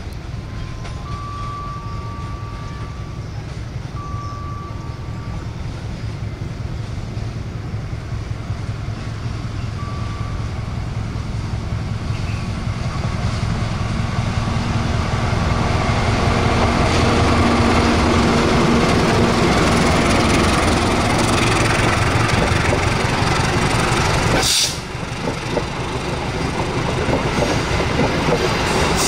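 Diesel locomotive hauling a passenger train past: a heavy engine and rail rumble that grows steadily louder as it approaches, then stays loud as the coaches roll by on the rails. A few short, faint high tones sound in the first few seconds, and the sound breaks off abruptly about three-quarters of the way through before the passing train carries on.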